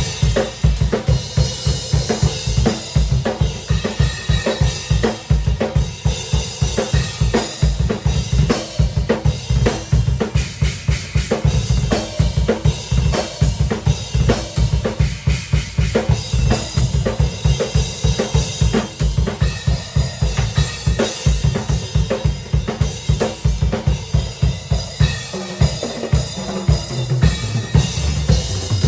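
Drum kit played fast and steadily: kick drum, snare and cymbals in a dense driving rhythm. Near the end a pitched low bass line rises under the drums.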